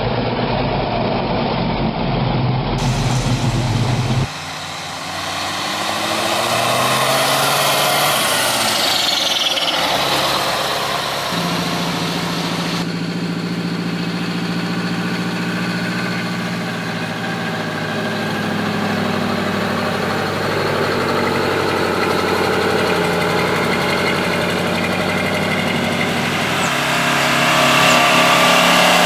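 Antique diesel truck engines running, across several clips that cut abruptly from one truck to another; one engine's pitch rises and falls as it revs about a third of the way through.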